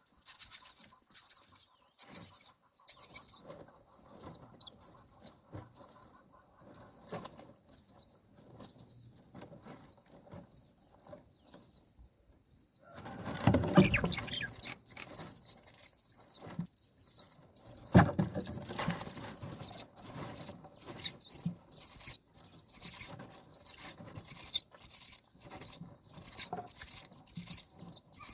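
Common myna nestlings begging in the nest with fast, high-pitched squeaky calls, sparse and faint for a while, then loud and rapid again. About thirteen seconds in there is a burst of rustling with dull thuds, and a sharp knock near eighteen seconds.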